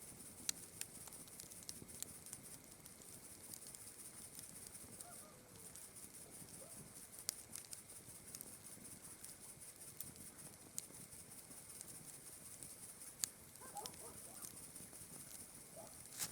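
Campfire crackling, with irregular sharp pops of burning wood, over a steady high chirring of night insects such as crickets. A few faint calls come in near the end.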